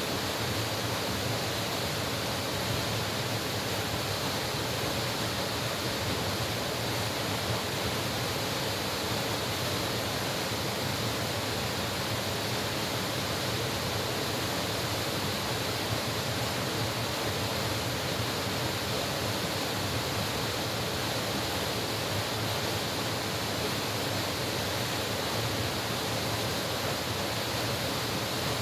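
Mountain stream water flowing steadily over rocks, an even, unbroken rush.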